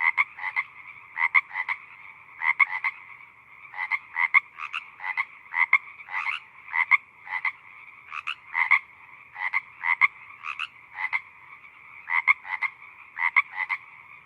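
Chorus of frogs croaking, a steady background of calls with louder short croaks coming in quick groups of two or three every second or so.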